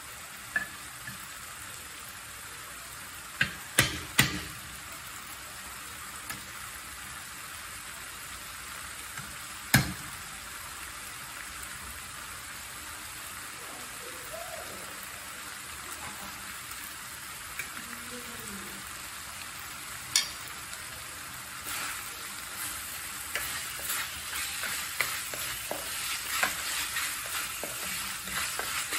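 Prahok ktiss sizzling steadily in a metal wok, with a few sharp clicks in the first half. In the last several seconds a wooden spatula stirs and scrapes through the mixture against the pan.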